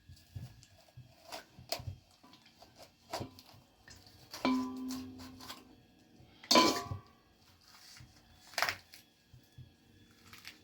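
Metal pots and dishes being handled: scattered knocks and clinks, with two louder clanks about four and a half and six and a half seconds in that ring briefly.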